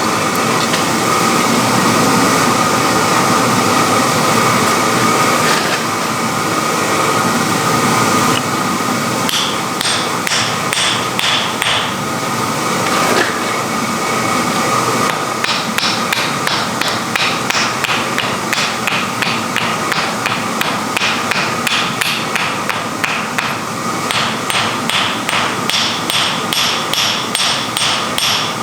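Metal hammer blows ringing on hot iron at the anvil, struck in steady runs of about two blows a second from about nine seconds in. Before that there are several seconds of a steady rushing noise.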